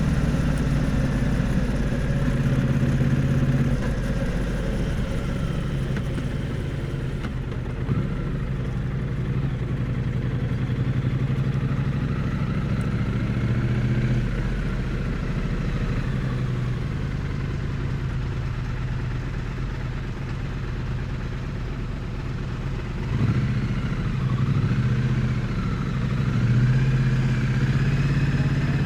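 Triumph Bonneville T100's parallel-twin engine and exhaust running while riding, recorded close to the exhaust. The engine note rises and falls with the throttle. It eases off about four seconds in and picks up again about twenty-three seconds in.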